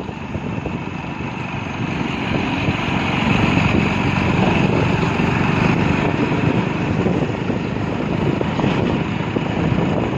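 Motorcycle riding along a highway: the engine running under a steady rush of wind and road noise, growing louder over the first few seconds.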